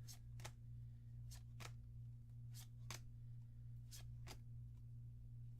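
Trading cards from a freshly opened booster pack being handled and flipped through, short soft snaps coming in pairs about every second and a half, over a steady low hum.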